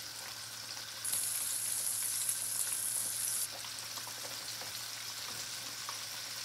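Flour-dredged chicken tenders deep-frying in hot oil: a steady sizzle. About a second in, a tender goes into the oil and the sizzle swells into a louder, hissier burst for about two and a half seconds, then settles back to the steady frying while metal tongs move the pieces with a few light taps.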